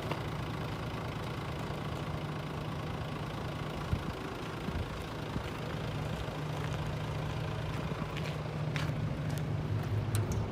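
Mitsubishi Fuso Fighter truck's 6M61 straight-six diesel engine idling steadily, with a few brief clicks in the last couple of seconds.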